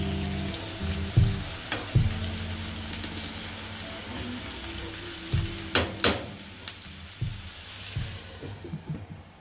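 Beef, tomato and pepper stew sizzling in a frying pan as a wooden spatula stirs it, with a few sharp knocks, the loudest two close together a little past halfway. Near the end a glass lid goes on and the sizzle becomes quieter and duller.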